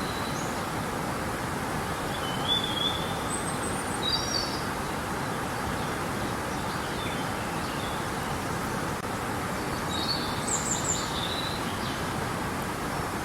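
Steady rushing of river water, with small birds chirping in short high phrases several times over it.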